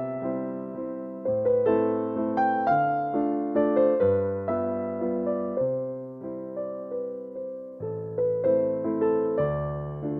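Background music: a gentle electric piano playing a flowing melody over chords, each note struck and fading.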